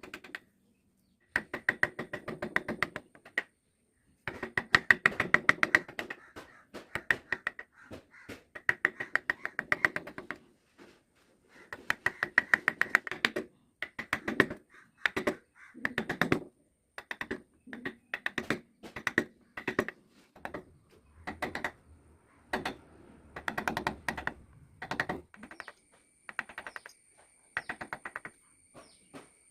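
Rapid tapping on wood from carving tools, in bursts of a second or two with short gaps between them.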